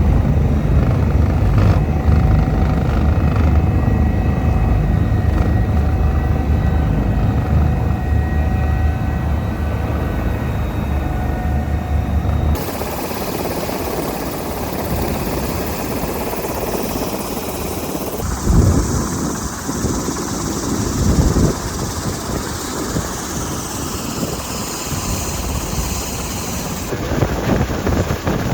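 Eurocopter EC145 helicopter in flight: a steady, loud rotor and turbine hum with thin steady whining tones above it. About twelve seconds in the sound switches abruptly to a rougher, noisier rush, and it changes character abruptly twice more later on.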